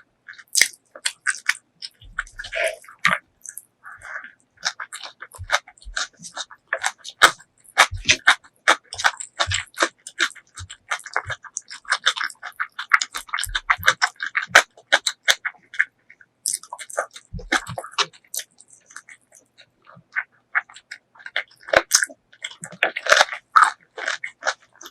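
Close-miked eating: rapid, wet chewing and crunching clicks, thickest in the middle and again near the end.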